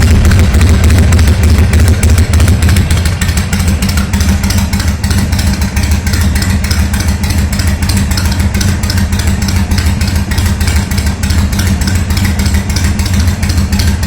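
2004 Harley-Davidson Sportster XL883's air-cooled V-twin engine idling through custom-made open drag pipes, a loud steady pulsing beat. It is a little louder for the first couple of seconds, then settles to an even idle.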